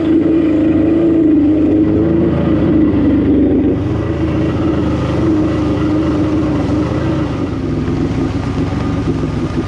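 Kawasaki X2 jet ski's 650 cc two-stroke twin running steadily under way, easing slightly in pitch and loudness about four seconds in.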